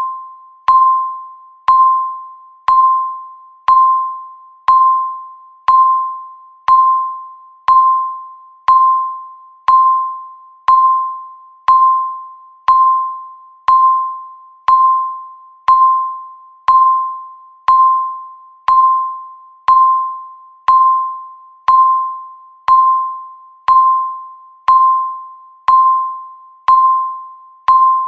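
Electronic countdown-timer beep sounding once a second: a short, bell-like pitched tone that fades quickly after each strike, in an even, unbroken rhythm.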